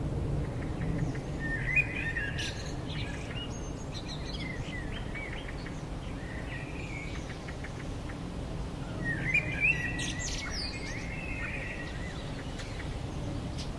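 Birds chirping in two quick twittering bursts, about two seconds in and again about nine seconds in, with scattered single chirps between, over a steady low background noise.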